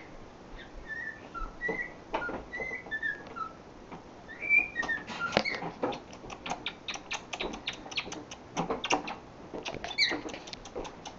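Cockatiel making short whistled chirps, then a quick run of sharp clicks and taps that keeps up to the end.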